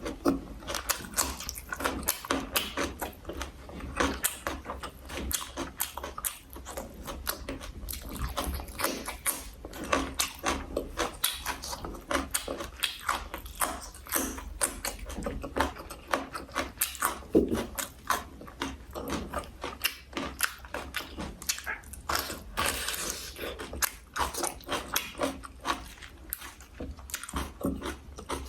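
Close-miked eating: a person chewing food, with many quick, irregular clicks and crunches.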